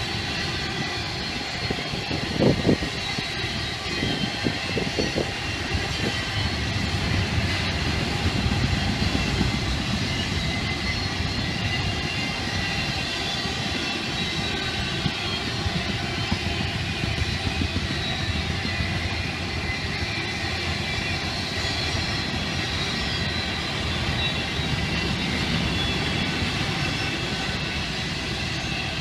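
Double-stack intermodal freight cars rolling past on steel rails: a steady rumble of wheels on track with thin high squeals. A few louder knocks come about two and a half seconds and five seconds in.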